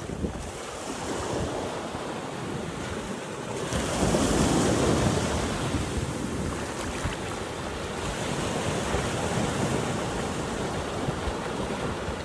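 Atlantic Ocean surf breaking and washing up the beach, with one wave swelling loudest about four seconds in. Wind buffets the microphone with a low rumble.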